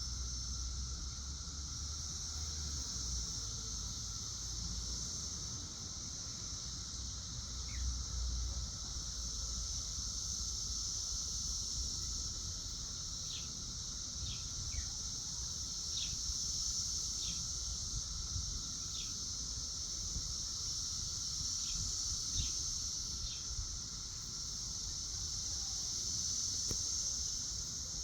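Cicada chorus droning steadily at a high pitch. A dozen or so short, falling bird chirps come through between about halfway and three-quarters of the way in.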